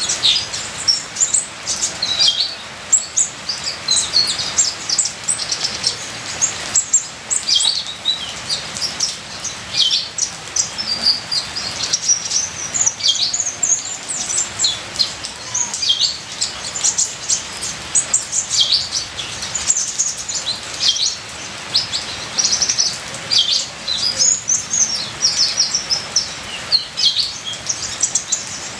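Kolibri ninja sunbird singing a continuous stream of rapid, high-pitched chirps and short twittering phrases, over a steady background of trickling rain water.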